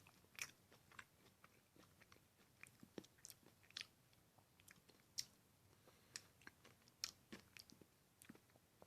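Faint sounds of someone eating ice cream: irregular small mouth clicks and smacks while chewing, a few each second.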